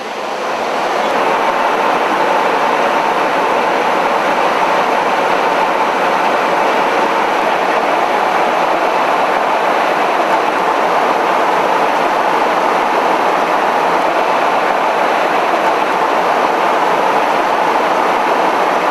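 Steady jet-aircraft cabin noise in flight, a loud even rush of engines and airflow with a faint steady hum, rising over the first second and then holding level.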